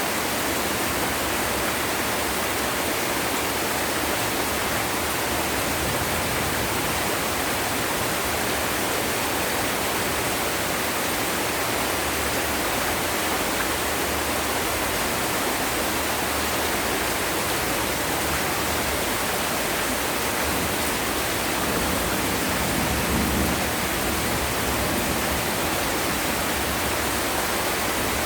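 Heavy rain falling steadily, a dense, even hiss with no letup, with a brief deeper swell about three-quarters of the way through.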